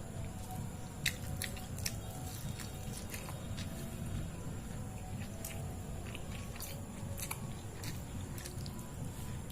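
Close-miked wet chewing of soft food, with sharp lip smacks and mouth clicks scattered through, over a steady low background hum.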